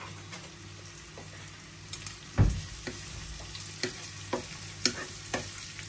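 Chicken sausage pieces sizzling as they shallow-fry in coconut oil, while a wooden spatula stirs them and knocks against the pan every second or so. A dull thump about two and a half seconds in is the loudest sound.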